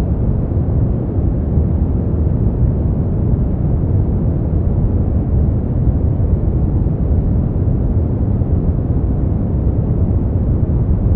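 Continuous generated noise of the kind sold as white noise for sleep. It is deep and muffled rather than hissy, with most of its weight low down and no high treble, and it holds perfectly steady.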